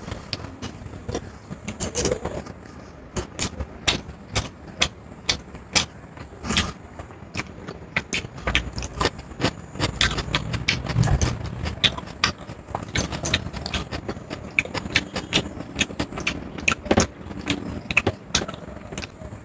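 Close-up eating sounds: chewing and smacking of biryani and salad, heard as a run of irregular sharp clicks, a few a second, with a brief low rumble near the middle.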